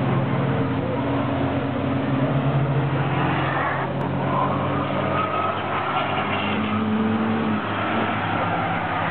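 Cars driving past on a race track, their engines running with notes that rise and fall as they go by. There is an abrupt change about four seconds in.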